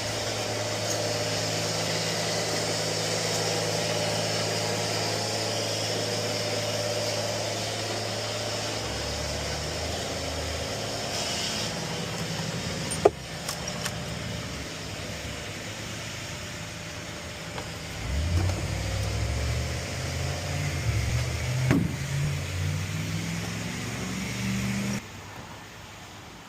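A motor vehicle engine running steadily, with a sharp click about 13 seconds in; later the engine pitch climbs unevenly in steps, as when revving or pulling away, and it cuts off suddenly near the end.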